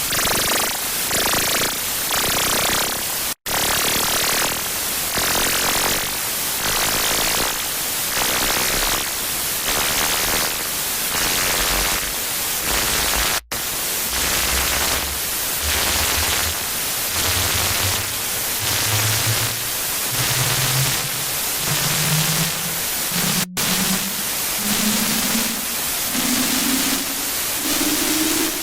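Harsh-noise track of loud electronic static that pulses a little over once a second and cuts out for an instant three times, about ten seconds apart. From about a third of the way in, a low electronic tone climbs in short steps, note by note, under the static.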